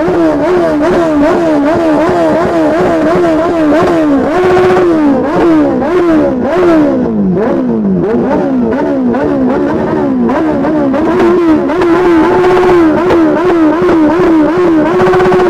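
Superbike engine revved in quick repeated throttle blips, its pitch jumping up and falling back two or three times a second. Twice it is held steady at the top for a moment before dropping.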